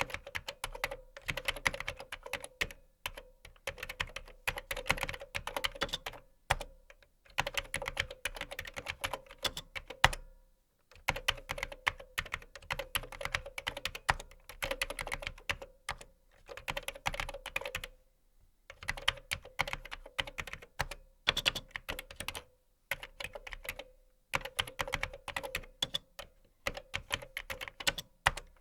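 Typing on a computer keyboard: fast runs of key clicks in bursts of a few seconds, broken by short pauses, with one louder keystroke about ten seconds in.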